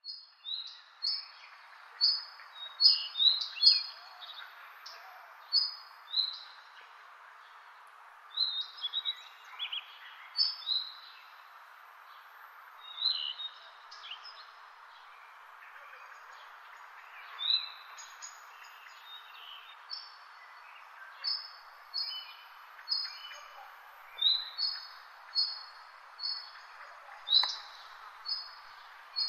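A small songbird chirping: short, high notes in quick clusters at first, then an even run of single chirps a little more than once a second. A steady hiss runs underneath.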